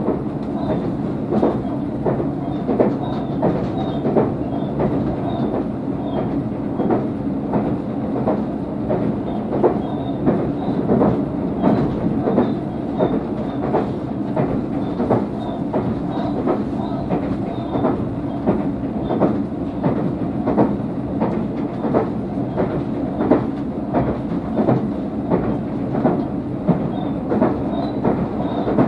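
Tobu 500 series 'Revaty' electric train running at speed, heard from inside the car: a steady rumble of wheels on rail with frequent clicks as the wheels pass over rail joints.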